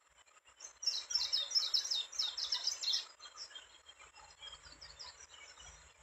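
A bird giving a quick run of high chirps, each note sliding downward, about five a second for around two seconds, then a few fainter notes near the end.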